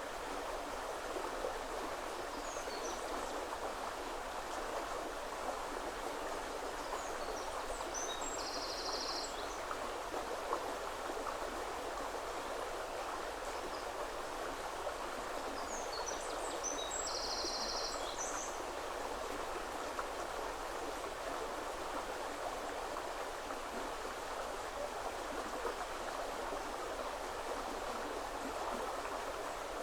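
A shallow woodland river flowing steadily over stones. A small bird chirps high above it, twice giving a short burst of chirps with a rapid trill, about a third of the way in and again just past the middle.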